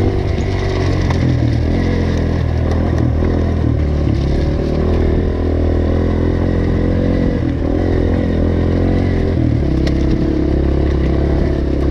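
Dirt bike engine running under a changing throttle, its pitch stepping up and down several times, as the bike is ridden over rough, rocky ground.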